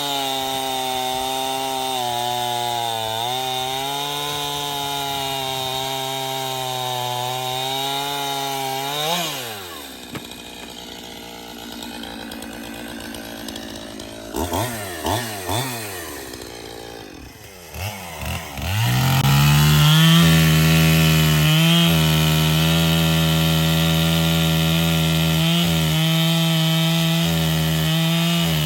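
Echo CS-6700 two-stroke chainsaw running at high revs while cutting wood. About nine seconds in the engine drops back to a low idle, is blipped a few times, and then is throttled back up to full speed, louder, for the rest of the time.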